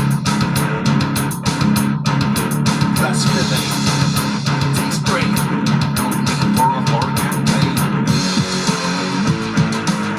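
Live rock band playing an instrumental passage: electric guitar and bass guitar over a steady beat, with no vocals.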